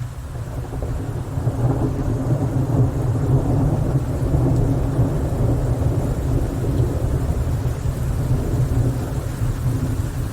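A long roll of thunder: a deep rumble that swells over the first few seconds and rolls on steadily, over the hiss of rain.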